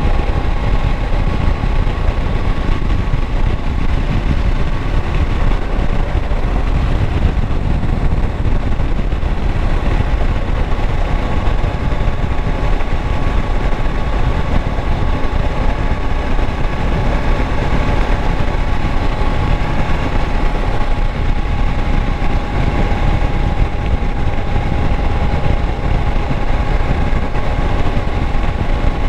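2016 Kawasaki Versys 650's parallel-twin engine running steadily at an even pitch, loud and continuous.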